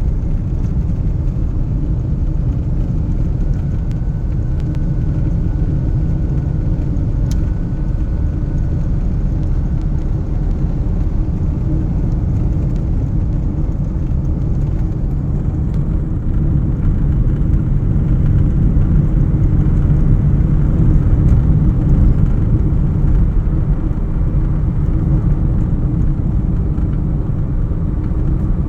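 A steady low rumble that grows slightly louder about halfway through.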